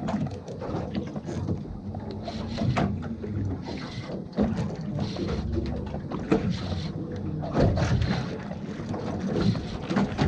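Wind on the microphone and water sloshing against the hull of a small boat at sea, an uneven low rumble with scattered knocks.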